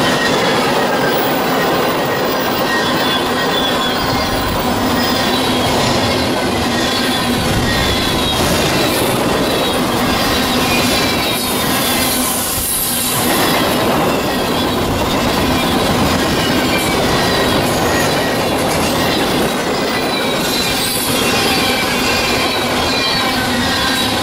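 Freight train of tank cars and covered hoppers rolling past close by: a steady rumble of steel wheels on rail with clacking as wheel sets cross rail joints and a high squeal from the wheels, plus a brief hiss about halfway through.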